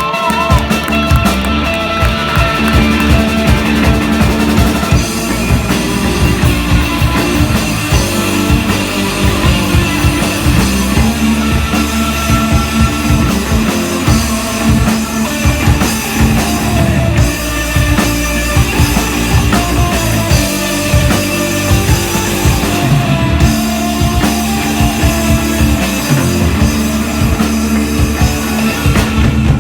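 Indie rock band playing live: drum kit and guitar with bass, an instrumental passage without singing.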